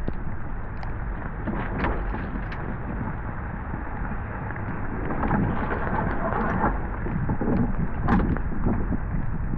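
Wind buffeting the microphone over water rushing along the hull of a Beneteau First 305 sailing yacht under sail, with a few short sharp knocks or splashes.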